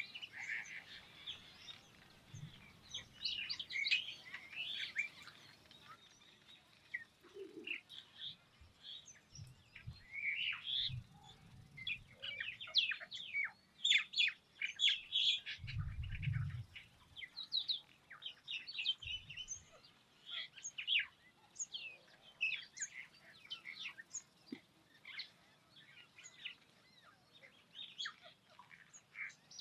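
Many small birds chirping and calling, short high notes overlapping throughout, with a low thud about halfway through.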